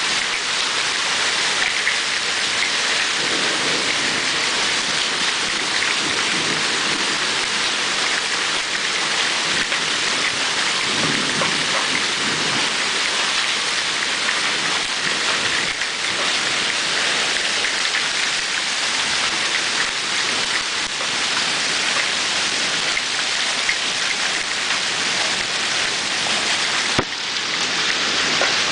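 Heavy rain pouring steadily in a thunderstorm, with low thunder rumbling a few seconds in and again around the middle. A single sharp knock sounds near the end.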